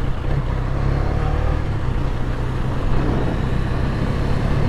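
KTM 250 Duke's single-cylinder engine running steadily while the motorcycle is ridden.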